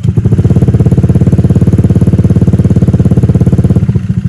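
Honda Vario 125 scooter's single-cylinder engine idling through an aftermarket stainless racing exhaust, a loud, steady, rapid pulsing that eases slightly near the end.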